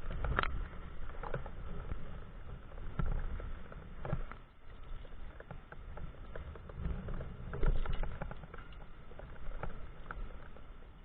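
Heavy rain pattering during a bike ride through a downpour, with scattered clicks and knocks from the bike and a low rumble underneath.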